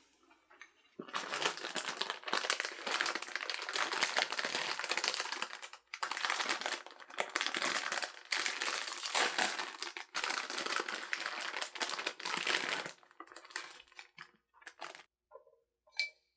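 Crinkling and rustling of something being handled, in three long spells with short pauses between them, followed by a few light taps and clicks near the end.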